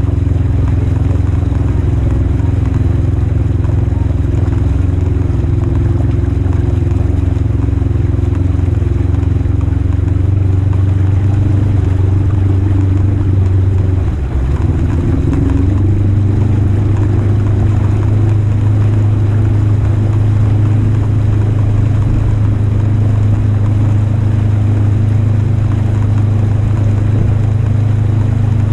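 Polaris RZR 1000 side-by-side's twin-cylinder engine running steadily under load. About halfway through it briefly drops off and then pulls steady again.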